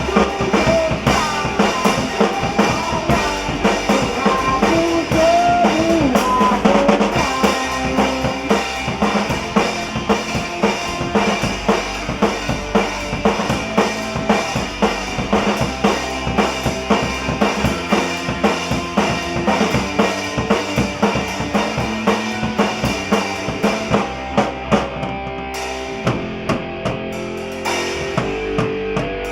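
Rock band playing an instrumental passage live: a drum kit keeps a steady beat on bass drum and snare under sustained bass and chords. A lead line of sliding, bending notes rides on top in the first several seconds, and the cymbal sizzle drops away about 24 seconds in.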